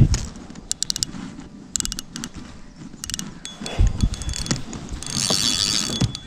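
Fishing reel clicking in short rapid runs while a hooked bass is fought and brought in, with a few low knocks and a hissing noise about five seconds in.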